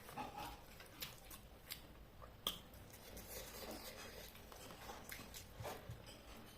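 Faint eating sounds: a person chewing a mouthful of chicken and rice, with scattered small clicks and taps. One sharper click comes about two and a half seconds in.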